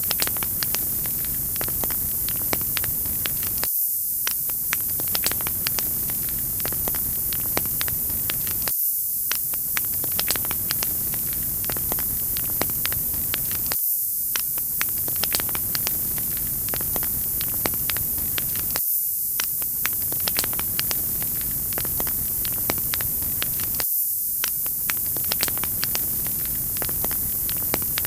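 Wood fire crackling: a steady hiss with many small snaps and pops scattered through it. The fuller, lower part of the sound briefly drops out about every five seconds, as in a repeating loop.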